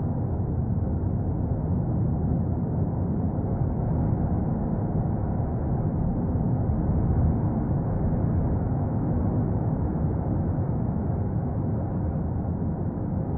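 Erupting Cumbre Vieja volcano: a steady, deep rumble without breaks.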